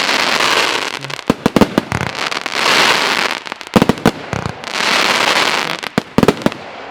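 Nordlicht Feuerwerk's 'Der Krawall' F2 firework battery firing. Quick clusters of sharp shots alternate with a second-long rushing hiss, about three times.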